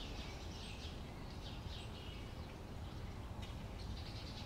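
Faint bird chirps, short high calls repeating every half second or so, over a low steady hum.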